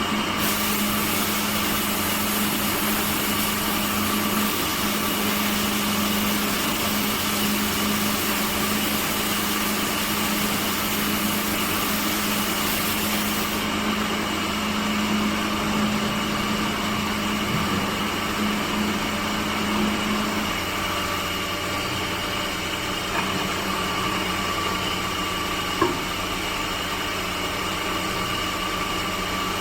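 Electric woodworking machine running steadily with a constant hum. Its hiss eases about halfway through, its pitch drops slightly about two-thirds of the way in, and there is a single sharp tick near the end.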